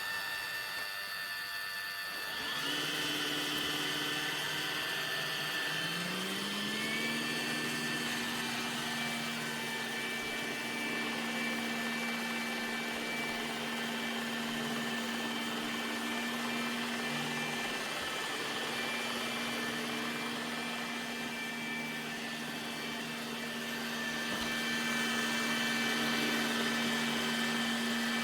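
Roomba Combo j7+ robot vacuum running with a steady motor whir. The whir steps up in loudness a couple of seconds in, and its motor note rises in pitch about six seconds in, then holds steady.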